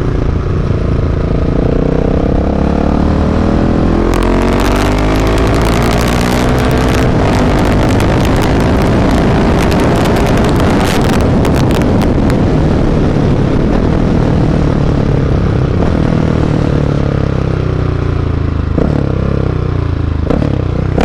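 Husqvarna 701's single-cylinder 700 cc engine through a Mivv aftermarket exhaust, revving up in pitch under hard throttle as the motorcycle climbs. It keeps pulling, then drops back near the end. A loud rushing and crackling noise rides over it for several seconds in the middle.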